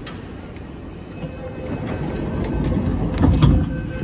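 Running noise of a CRRC Changchun-built MTR Tuen Ma line train, heard from inside the car: a low rumble of wheels on rail that grows louder about a second in, with a few sharp knocks around three seconds in.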